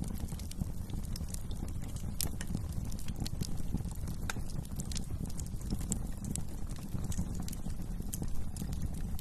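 Wood fire crackling in a fireplace: frequent small sharp pops and snaps at irregular intervals over a steady low rumble of the flames.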